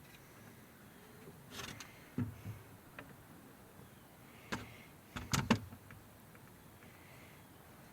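A few scattered light knocks and clicks of wood and hand tools being handled at a workbench, loudest in a quick cluster about five seconds in.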